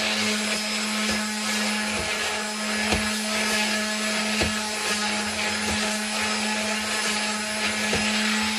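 Electric sander running steadily with 220-grit paper against the edges of a wooden shelf, softening the hard edges, with a steady motor hum and the hiss of abrasion. Light knocks come now and then as the sander meets the wood.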